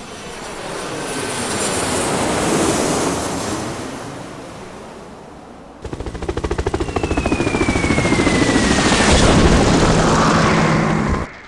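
Aircraft sound effects: an airplane passing overhead, swelling then fading with a sweeping, phasing hiss. About six seconds in, a rapid chopping aircraft engine starts suddenly, with a falling whistle over it, and cuts off near the end.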